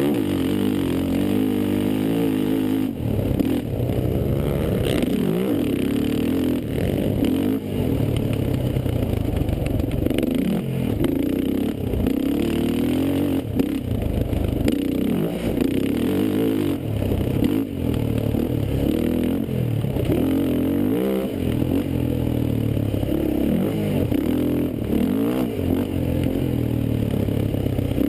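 Racing quad engines revving, their pitch climbing and dropping again and again as they accelerate and back off.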